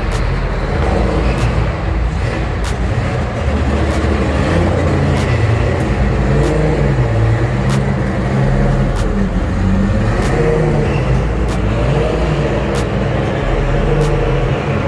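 A car engine running steadily, its pitch drifting up and down a little, with faint light clicks throughout.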